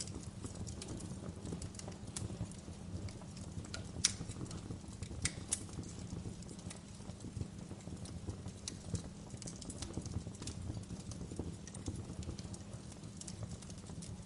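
Wood fire crackling in a fireplace: a steady low rumble of flames with irregular sharp pops and snaps, the loudest pops about four and five and a half seconds in.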